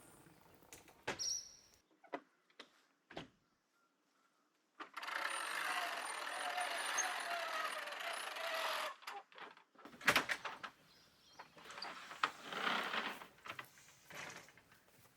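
Equipment being handled: scattered clicks and knocks, then about four seconds of steady scraping, sliding noise, followed by a sharp knock and more rustling and scraping.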